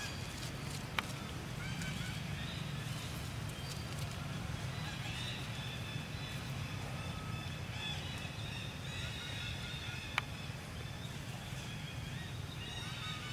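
Monkeys calling: many short, high-pitched calls overlapping, over a steady low rumble, with two sharp clicks, one about a second in and one about ten seconds in.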